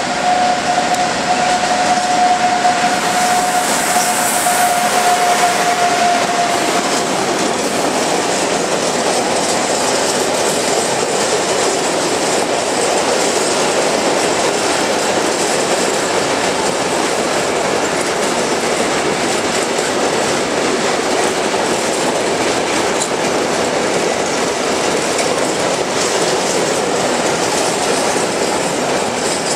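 Freight train of open wagons rolling past behind Siemens electric locomotive 541-003: a steady high tone for the first seven seconds or so as the locomotive goes by, then the even running noise of the wagons' wheels on the rails.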